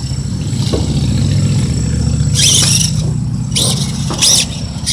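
Electric RC truck with a broken rear drive shaft running: its motor and drivetrain make a low, steady rattling rumble, with a few short hissing bursts over it.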